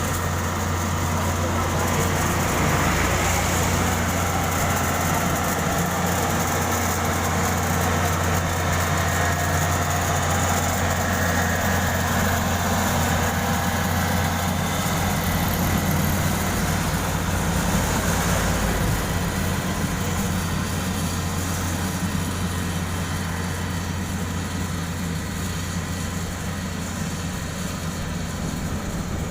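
Diesel engines of heavy road-construction machinery running steadily, with a constant low hum.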